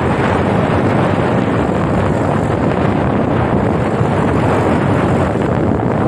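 Waterfall with a loud, steady rush of falling water.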